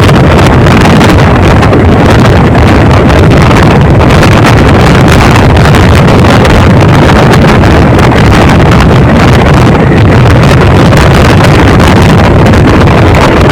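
Heavy wind buffeting the microphone over the steady rumble of a passenger train running at speed, recorded from aboard the moving train.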